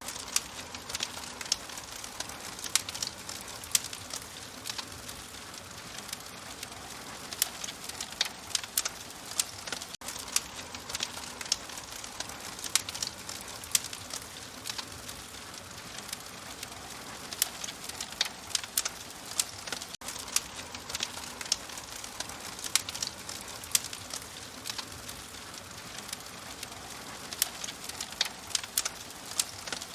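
Open fire crackling, with frequent sharp irregular pops and snaps over a steady hiss.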